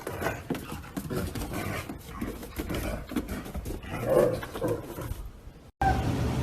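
A dog making short low vocal sounds among many small clicks and knocks, the loudest about four seconds in; near the end the sound cuts off abruptly and music begins.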